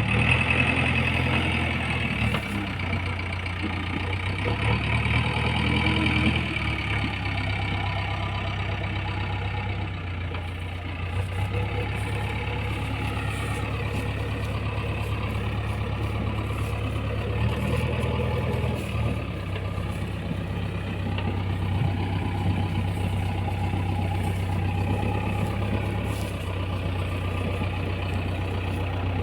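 JCB 3DX backhoe loader's diesel engine running steadily, its speed rising briefly near the start, around six seconds in and again around eighteen seconds.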